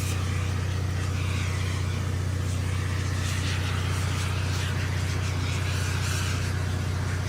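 An engine running at a steady idle, a constant low hum, with a flickering hiss over it.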